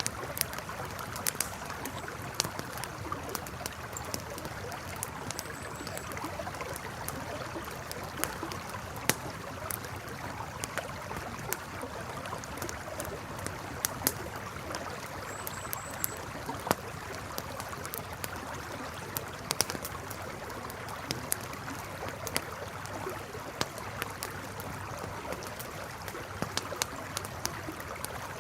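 River water flowing steadily under a crackling wood campfire, with sharp pops and snaps scattered irregularly throughout.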